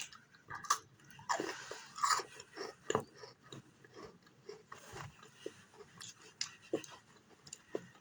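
A person biting and chewing crunchy orange cookies: irregular crunches, thickest and loudest in the first three seconds, then sparser chewing.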